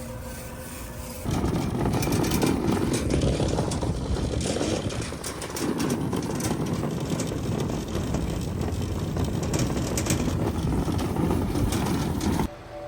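Semi truck on the move: steady engine and road noise that starts abruptly about a second in and cuts off suddenly near the end.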